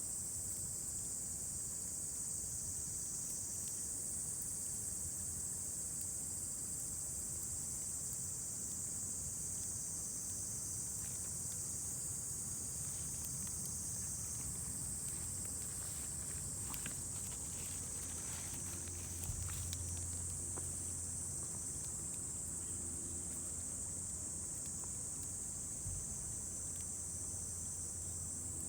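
A steady, high-pitched chorus of insects, with a few faint crackles from a wood campfire around the middle. A low hum comes in a little past the middle.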